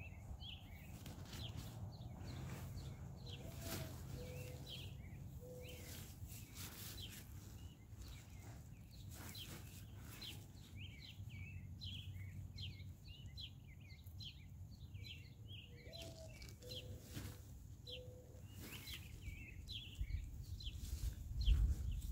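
Small birds chirping and twittering over a low steady rumble, with a lower call of a few notes heard twice. The low noise grows louder near the end.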